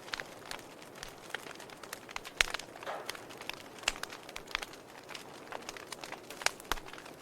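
Logs burning in a fireplace, crackling: irregular sharp pops and snaps over a soft steady hiss, with the loudest pops a little over two seconds in, near four seconds and past six seconds.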